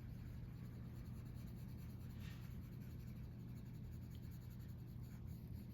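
Faint scratching of a colored pencil shading on paper, over a steady low hum.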